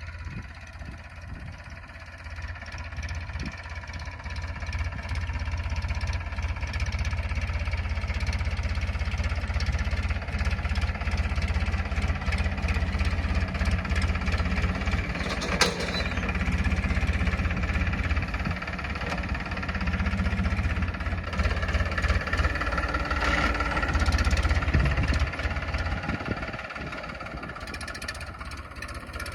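Tractor's diesel engine running steadily, growing louder over the first few seconds, with one sharp click about halfway through.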